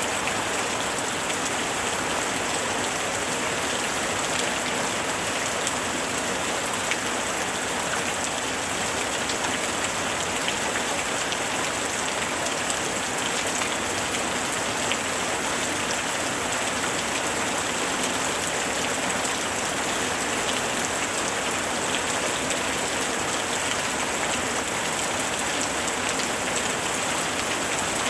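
Steady rain falling on a surface, an even dense hiss with scattered drop patter and no thunder.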